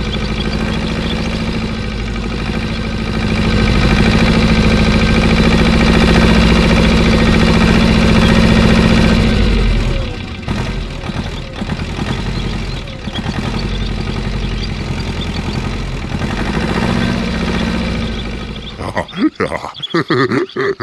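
An engine running at a steady idle, a low drone that grows louder for several seconds, then drops and turns choppy about ten seconds in. Near the end it breaks up into short, uneven sounds.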